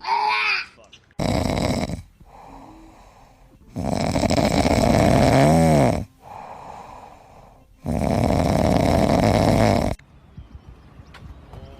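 Loud snoring in three long breaths of a second to two seconds each, with quieter pauses between them. A short high pitched call comes right at the start.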